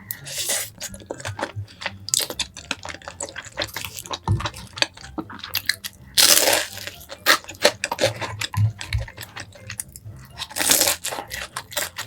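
Close-miked eating of rosé tteokbokki: sticky, wet chewing of chewy rice cakes in creamy sauce, with rapid mouth clicks. There are a few louder noisy surges of about a second each, around a second in, at about six seconds and near eleven seconds.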